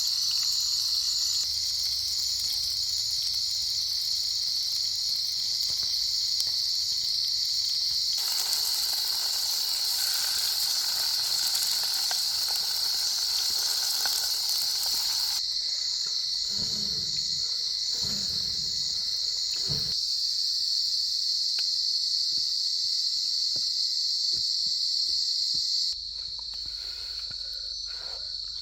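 Steady, shrill chorus of rainforest insects, with a second, pulsing insect call above it. Midway a rushing hiss joins it for about seven seconds, and a few dull knocks follow.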